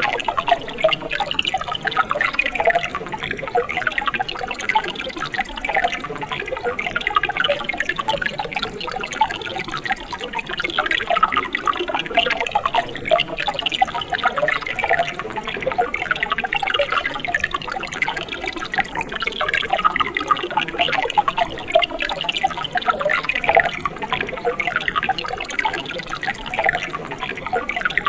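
Mountain stream water trickling and splashing steadily over rocks, a busy patter of many small gurgles and drips.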